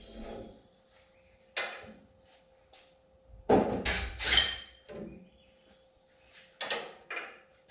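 A few separate metal clanks and knocks from tools and car parts being handled while working under a car, the loudest pair about halfway through, one of them ringing metallically. A faint steady hum runs underneath.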